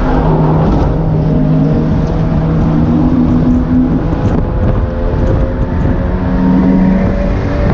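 Mazda MX-5 NA's stock 1.6-litre four-cylinder engine with an aftermarket cat-back exhaust, accelerating under load with its note rising in the second half. Wind rushes through the open cockpit over it.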